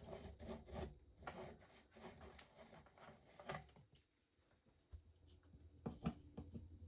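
Faint rubbing and scraping of parts handled on a workbench for the first few seconds, then a few light knocks about five to six seconds in.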